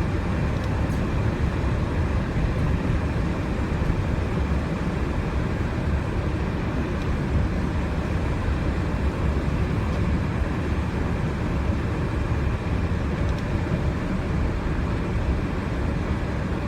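Gravely garden tractor engine running steadily: a continuous low mechanical drone.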